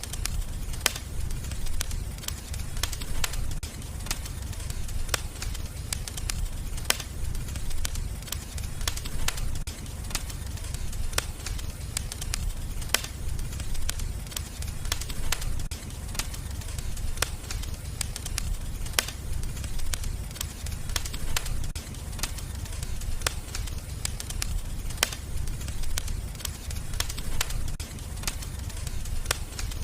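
Wood fire burning in a fireplace: irregular sharp crackles and pops, a few each second, over a steady low rumble of the flames.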